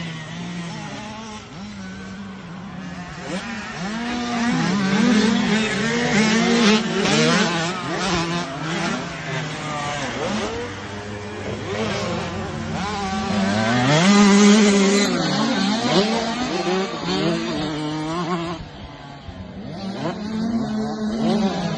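Mini motocross bikes riding a track, their engines revving up and down again and again, with several engines overlapping at different pitches. The loudest is a steep rev-up about two-thirds of the way through.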